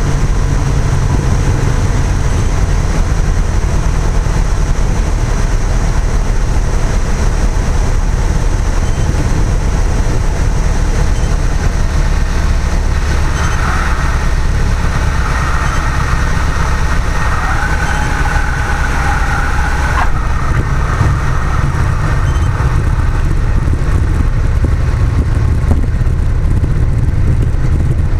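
Cessna 172's engine and propeller running with a steady low drone. From about 14 to 20 seconds in, a fainter mid-pitched sound with held tones rides over it and cuts off abruptly.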